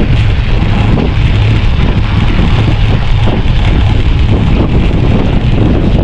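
Loud, steady wind buffeting the microphone, a constant low rumble with hiss above it.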